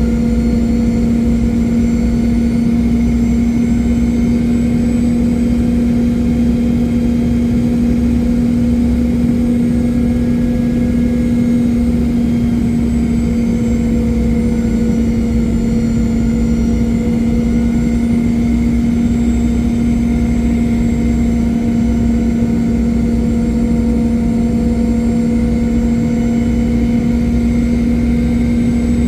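Inside the cabin of a Boeing 717-200, its rear-mounted Rolls-Royce BR715 engines and airflow make a steady drone with a constant low hum. The level does not change at all.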